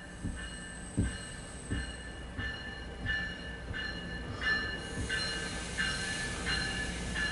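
A MARC commuter train arriving at a station, its bell ringing steadily about once every 0.7 s, while the rolling noise and wheel squeal of the multi-level cars grow from about halfway through. Heard through a car's windshield.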